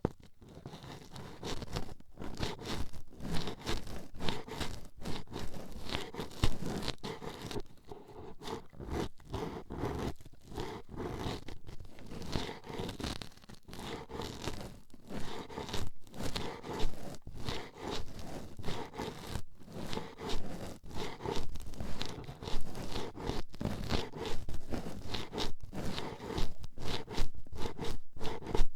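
Toothpick scraping and jabbing at a microphone's ear, very close: a dense, uneven run of short scratchy strokes.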